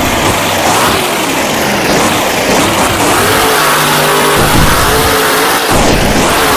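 Grave Digger monster truck's supercharged V8 engine revving hard, its pitch swinging up and down again and again as the throttle is worked.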